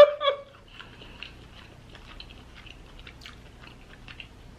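Close-miked chewing with small, scattered wet clicks and crackles as crab legs are picked apart by hand and eaten, after a brief hummed note at the very start.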